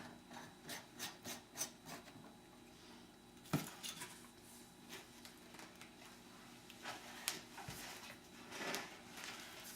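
Faint scraping and clicking of a PVC drain pipe being worked into a cemented coupling, with one sharper knock about three and a half seconds in and a couple of small knocks near the end. The fitting is being set tight.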